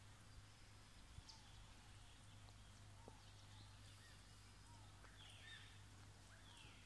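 Faint birds calling at dawn: scattered short chirps and falling whistles from several birds, two longer falling notes near the end, over a low steady hum.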